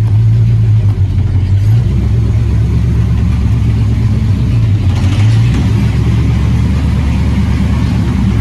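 Hot rod roadster's engine running at low speed as the car is driven slowly, a loud steady low rumble that swells slightly now and then.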